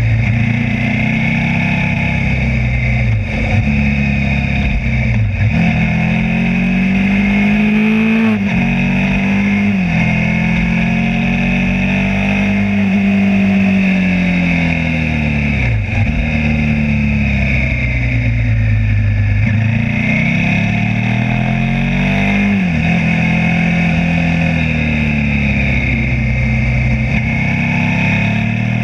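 Suzuki SV V-twin motorcycle engine heard from onboard, its pitch rising and falling through the bends with several sudden jumps from gear changes, over steady wind and road noise.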